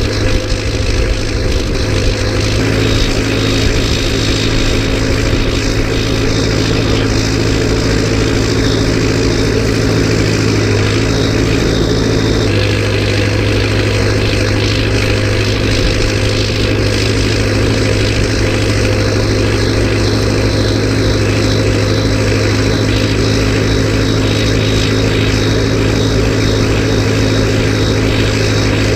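Massey Ferguson tractor's diesel engine running steadily, with a slight change in its note about twelve seconds in.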